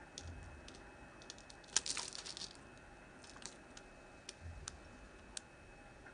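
A blade cutting into hard, dry Palmolive bar soap: scattered crisp clicks, then a sharp crack about two seconds in as a piece breaks, followed by a brief crumbly crackle, and a few more isolated clicks later.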